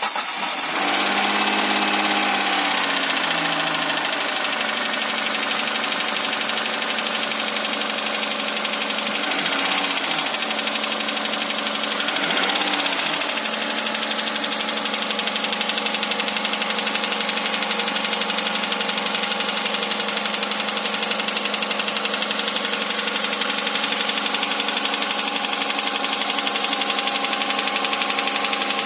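2008 Hyundai Santa Fe's 2.7-litre V6 engine, just started, its fast idle settling over the first few seconds. It is blipped briefly twice, around ten and twelve seconds in, then idles steadily with a knock in the engine.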